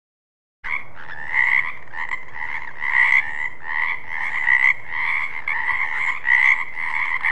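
Frogs croaking: a steady run of pulsing calls swelling about twice a second, starting abruptly after a short silence under a second in.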